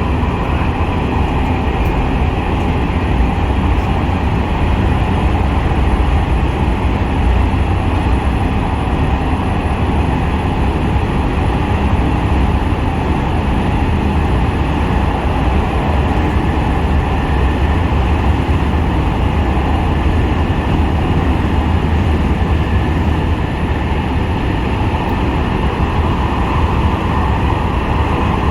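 Aizu Railway AT-750 series diesel railcar running steadily along the line: a constant low engine rumble with wheel and rail noise.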